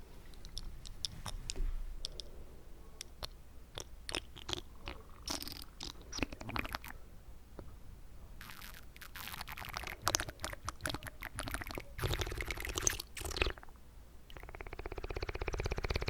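Wet mouth sounds with water in the mouth, close to the microphone: scattered sharp clicks and smacks, then longer runs of rapid wet crackling, and a dense buzzing rattle near the end.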